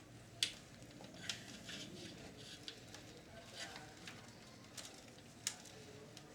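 Faint handling sounds inside a video recorder being taken apart: light scraping and rustling of plastic parts and wires, broken by a few sharp little clicks, the loudest about half a second in and another about five and a half seconds in.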